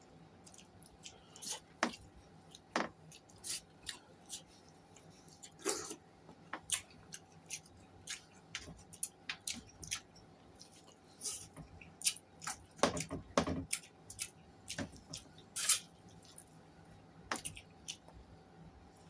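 A person eating close to the microphone: irregular wet chewing and lip smacks with small sharp clicks, a few louder ones about two-thirds of the way through.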